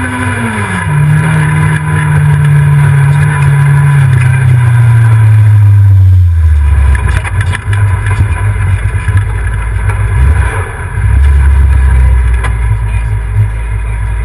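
Rally car engine running hard, heard from inside the car. Its note drops sharply about a second in, then slides steadily lower over the next five seconds and gives way to a loud low rumble with scattered knocks.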